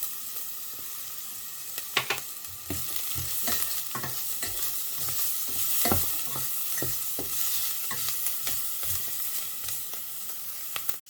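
Diced onion, shallots and garlic sizzling in olive oil, with a steady hiss broken by irregular clicks and knocks of a utensil as they are stirred.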